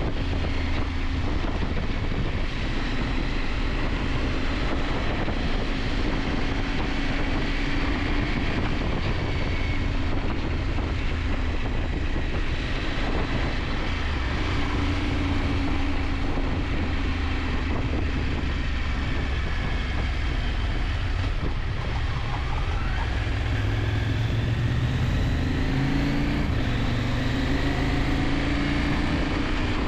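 KTM 890 Adventure's parallel-twin engine running steadily while riding, its pitch shifting with speed and rising about three quarters of the way through, under a haze of wind noise.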